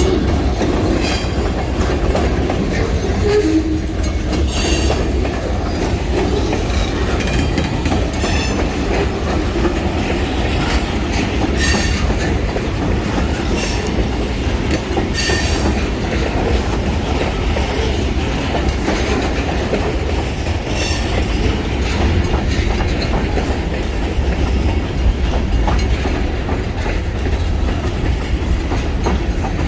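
Freight train rolling past at steady speed: wheels clicking and knocking over the rail joints, with a steady rumble and some wheel squeal.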